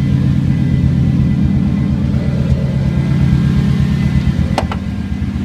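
Straight-piped Chevy engine idling with a steady, loud, low exhaust rumble. Two brief clicks come about four and a half seconds in.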